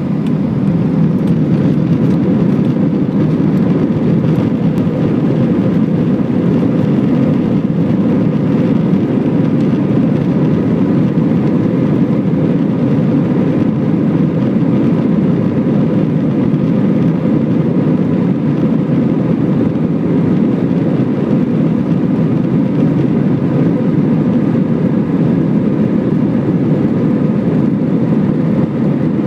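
Steady low rumble and hiss inside a jet airliner's cabin, with faint steady whining tones above it, unchanging throughout.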